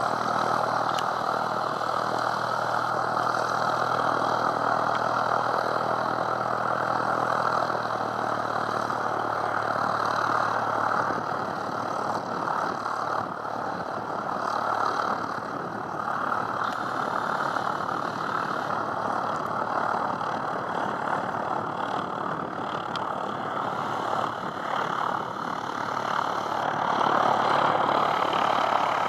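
Propeller aircraft engine running at low power, a steady drone with a rushing noise over it, growing louder near the end as it builds toward takeoff.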